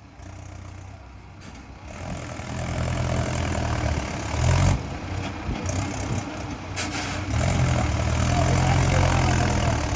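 Mahindra tractor's diesel engine running low at first, then revving up about two seconds in and running hard, with a brief dip in revs near the middle before it rises again.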